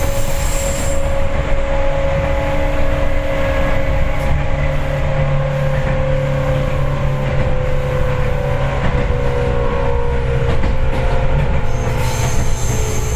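Seibu 4000 series electric train heard from inside the car while running: a steady low rumble of wheels and running gear with a motor and gear whine that slowly falls in pitch over the second half. A high wheel squeal comes in briefly at the start and again near the end.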